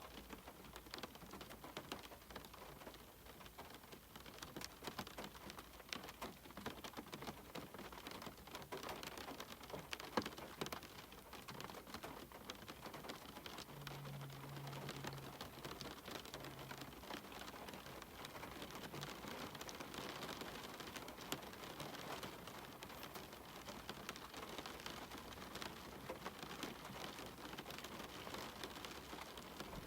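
Steady rain, with many individual drops tapping sharply close by. A faint low hum comes in for a few seconds around the middle.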